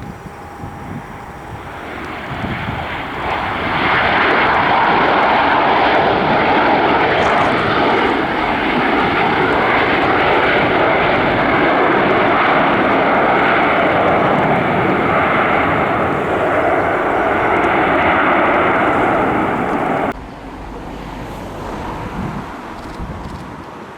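Airliner's engines passing close, building over a couple of seconds into a loud, steady noise that cuts off abruptly about twenty seconds in.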